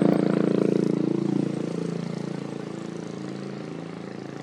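A vehicle engine running with a steady hum, loudest at the start and fading steadily, as of a vehicle moving away.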